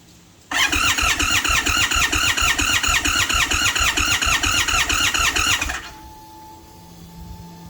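Indian Sport Chief V-twin motorcycle's electric starter cranking the engine for about five seconds in even, rapid pulses. It stops without the engine catching, the hard-starting condition.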